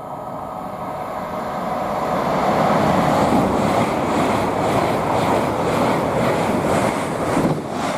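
LNER Class 801 Azuma electric train passing at speed: a steady rushing roar of wheels on rail and air that builds over the first two or three seconds, holds, and dips briefly near the end.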